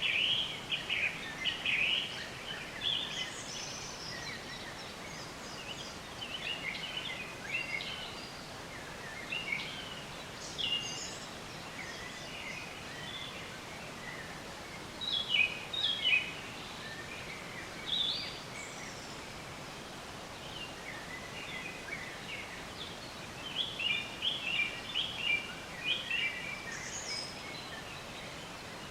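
Wild songbirds chirping and singing in short, quick phrases every few seconds, over a steady background hiss.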